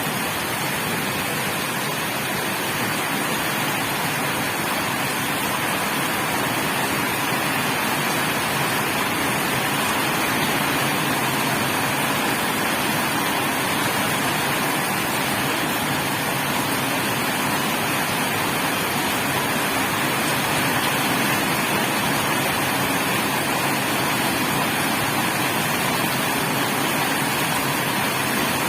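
Afternoon rain falling steadily, an even hiss that holds at one level throughout.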